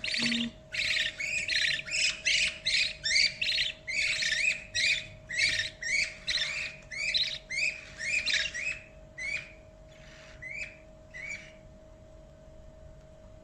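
Baby budgie (budgerigar chick) giving repeated begging calls about twice a second, typical of a chick wanting to be fed. The calls grow weaker and stop a couple of seconds before the end.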